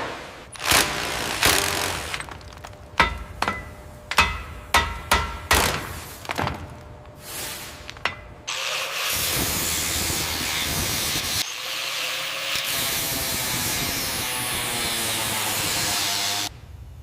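Tool work on metal: a run of sharp knocks and strokes, some with a metallic ring, then a power tool running steadily for about eight seconds before cutting off near the end.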